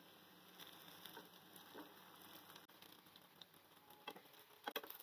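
Potato patties shallow-frying in oil in a nonstick pan: a faint steady sizzle, with a few light taps near the end as a wooden spatula and fork turn them over.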